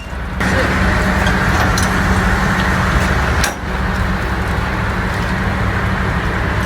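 Semi-truck diesel engine running steadily, with a sudden step up in level about half a second in and a brief dip about three and a half seconds in.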